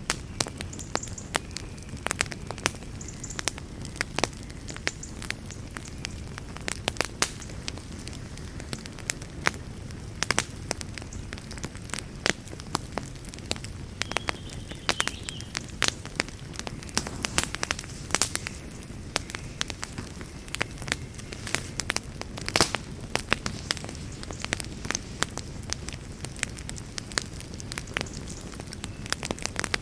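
Wood campfire burning, with a steady low rumble of flames and frequent irregular pops and crackles, a sharper snap about two-thirds of the way through.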